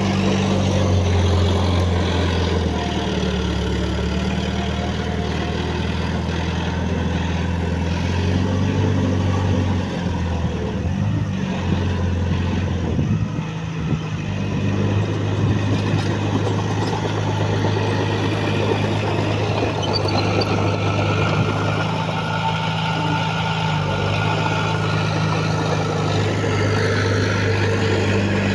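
Heavy earthmoving machine's diesel engine running steadily. Its pitch shifts with the load, and it wavers unevenly for a few seconds around the middle.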